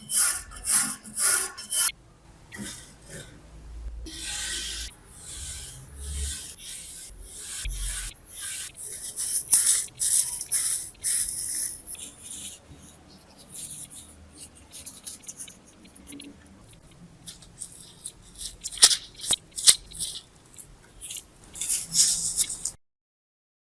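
Hand rubbing and scraping strokes on a rusty steel knife: quick strokes about two a second at first, then longer rubbing passes, and a few sharp clicks near the end before it cuts off suddenly.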